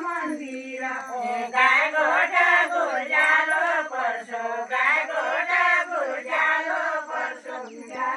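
High-pitched voices singing together in a repetitive, chant-like folk melody, with no percussion.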